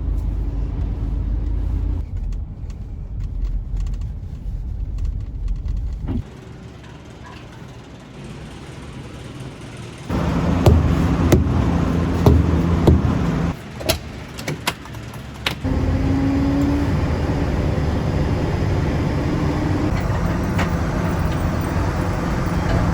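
Snowplow truck engine running with road noise, changing abruptly several times. The sound drops to a quieter rumble about six seconds in, then comes back louder about ten seconds in with a series of sharp knocks and clanks. From about sixteen seconds on there is a steady hum.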